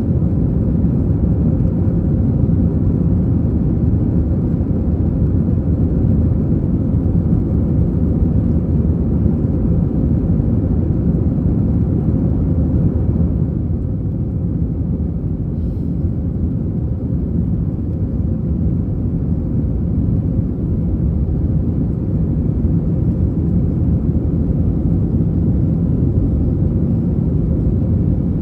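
Airbus A321 heard from inside the passenger cabin: a steady low rumble of the jet engines and airflow, typical of the takeoff run or climb, easing slightly about halfway through.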